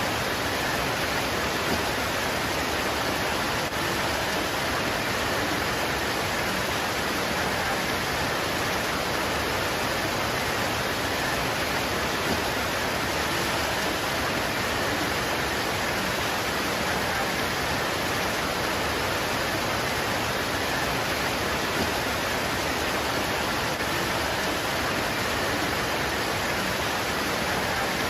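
Steady heavy rain pouring onto leaves, an even unbroken hiss of drops.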